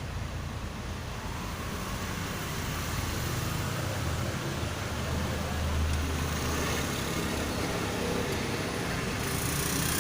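Low rumble of a motor vehicle's engine, growing slightly louder, strongest about halfway through.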